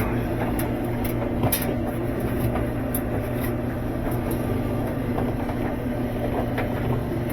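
A steady low hum with scattered light clicks and taps of hand tools on metal.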